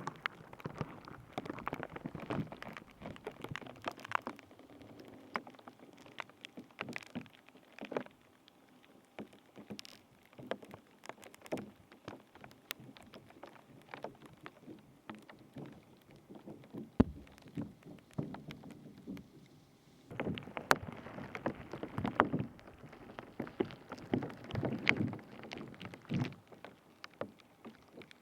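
Close-up ASMR handling sounds at a binaural microphone: irregular crackling, squishing and rubbing. They are busy for the first several seconds, sparser in the middle, and busy again from about twenty seconds in, with one sharp click about seventeen seconds in.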